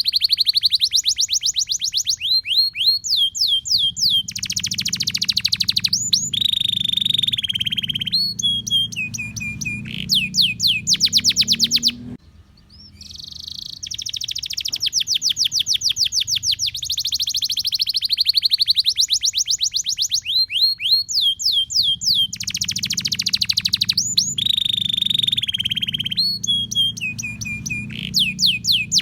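Domestic canary singing a long song of rapid rolling trills, with phrase after phrase of fast repeated high notes. The song breaks off about twelve seconds in, then the same run of phrases comes again.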